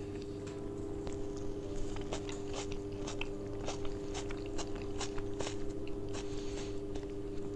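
A person biting into and chewing a salted plum: faint, irregular wet mouth clicks over a steady low hum.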